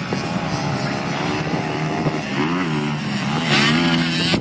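Pit bike engines revving up and down, their pitch rising and falling several times, growing louder near the end.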